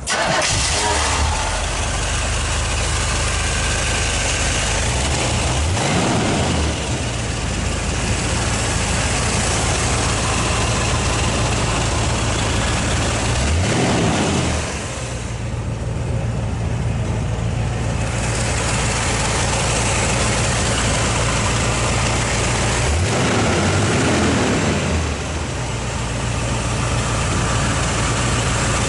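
1981 Chevrolet Corvette's 350 cubic-inch small-block V8 idling steadily. It is revved briefly three times, the pitch rising and falling back each time.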